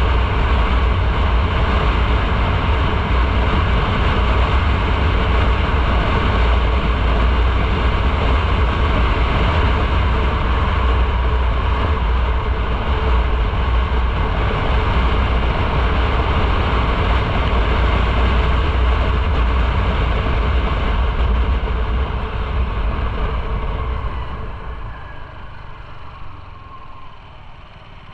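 Motorcycle riding at speed: a steady low rumble with rushing road and wind noise. Near the end it dies down over a few seconds as the bike slows.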